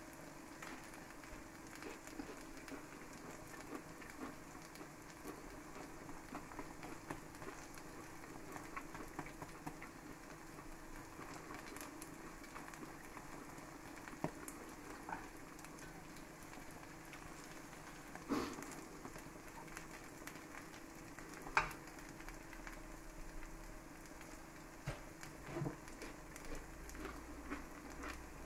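Cheese frying in a pan with a faint, steady sizzle, and a few short clicks of the metal spatula against the pan.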